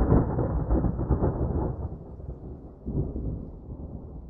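Thunder rumbling and slowly dying away, with a second swell of rumble about three seconds in.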